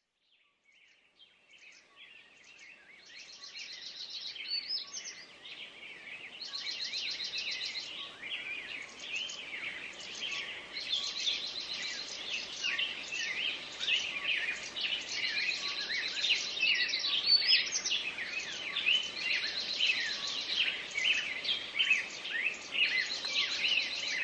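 Many birds calling and singing together in forest, with one bird repeating a fast high trill every few seconds over a dense mix of short chirps; the chorus fades in over the first few seconds.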